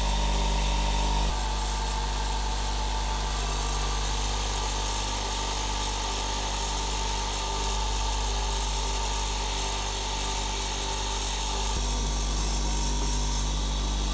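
An electric polishing motor running steadily with a constant hum, switched off suddenly at the very end.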